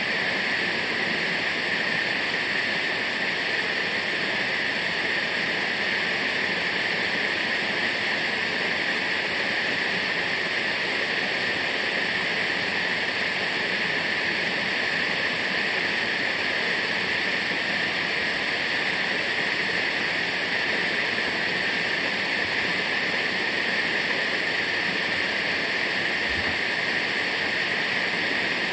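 Waterfall: falling water rushing steadily and without a break.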